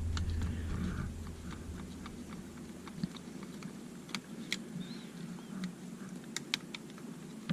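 Scattered small clicks and ticks as the plastic housing of a small drone is handled and its tiny motor-mount screws are worked out with a small screwdriver.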